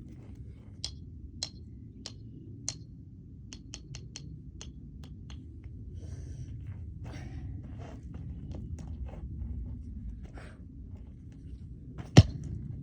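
Scattered light clicks and taps, then near the end one loud, sharp smash as a bird figurine is struck to break it.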